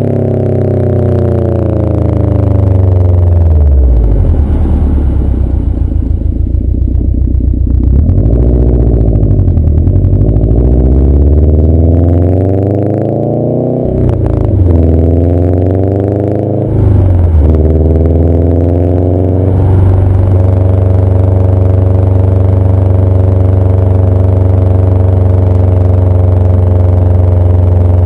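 2011 Subaru WRX turbocharged flat-four running through a CNT cat-back exhaust. The engine speed falls and rises several times, then holds steady from about two-thirds of the way in.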